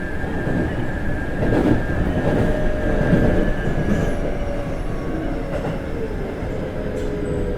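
Keikyu 1500 series train heard from inside the car as it slows into a station: the Toyo GTO inverter's whine falls slowly in pitch under braking over a steady wheel-and-rail rumble. A higher steady tone cuts out about four seconds in.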